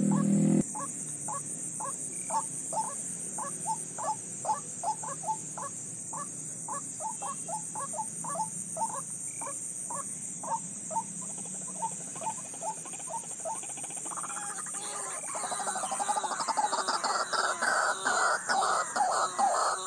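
Bird calls repeating steadily, a short falling note about two to three times a second. From about 14 seconds in they give way to a louder, denser chorus of calls.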